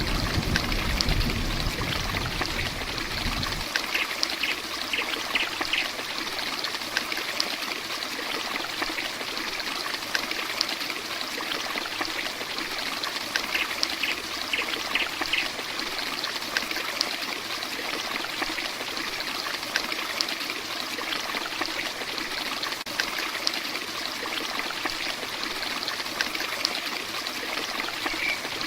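Heavy rain falling steadily: an even hiss of water with scattered drop ticks. A deep low rumble underneath stops a few seconds in.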